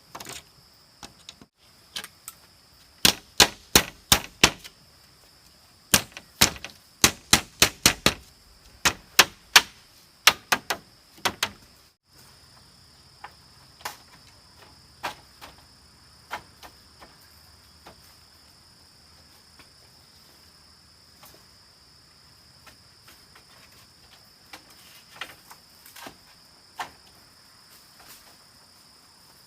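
Sharp knocks of a hand tool striking bamboo, in quick runs of two to three blows a second for about nine seconds, then only scattered single knocks. A steady high insect drone runs underneath.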